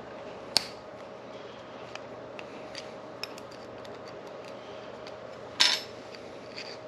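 Small metal clicks and clinks of a hole saw arbor and drill bit being worked apart by hand, with a sharp click about half a second in and a louder metallic clatter near the end, over a steady hum.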